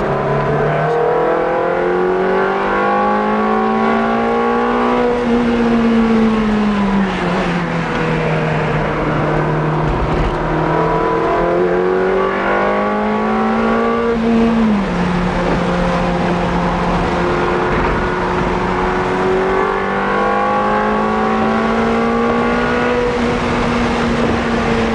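Ferrari 360 Modena Stradale's V8 heard from inside the cabin, pulling hard down the straights and easing off for corners. The engine note climbs steadily, falls back about five seconds in, climbs again, and drops abruptly at a gear change about fifteen seconds in before rising once more.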